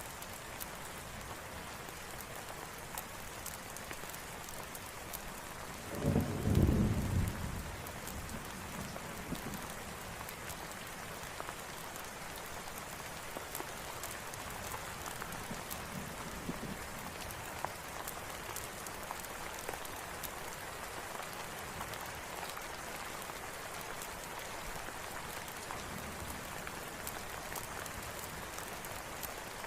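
Steady rain falling, with scattered small sharp ticks. A low rumble of thunder swells about six seconds in and fades over a second or two, with fainter rumbles later.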